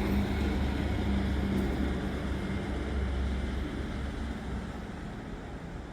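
A low, steady engine-like rumble that gradually fades over the second half.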